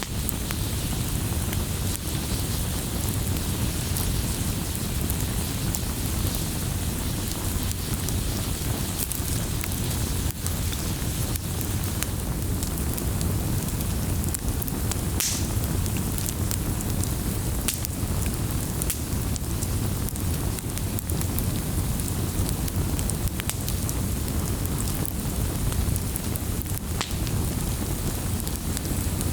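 Wood fire crackling in a fireplace: a steady low rumble of burning with scattered sharp pops and snaps, one louder pop about halfway through.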